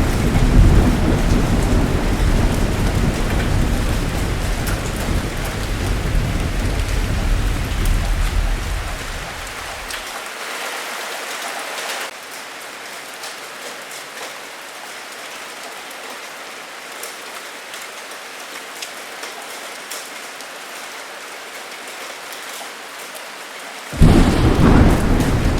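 Heavy rain pouring steadily, with deep thunder rumbling that dies away about ten seconds in and leaves only the rain. Near the end a new peal of thunder breaks in suddenly and loudly.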